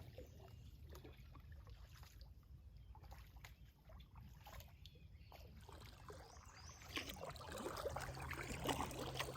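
Kayak paddling: paddle blade dipping with water dripping and trickling, faint at first and louder from about seven seconds in.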